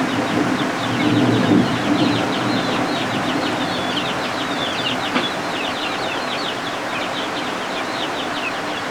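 Guinea fowl keets peeping continuously: many short, high, falling chirps overlapping, over a steady hiss of rain. A low rumble fades out in the first couple of seconds.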